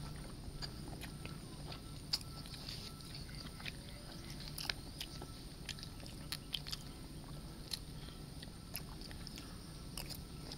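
Chewing and mouth sounds of people eating sisig, with scattered small clicks, smacks and crunches at irregular moments.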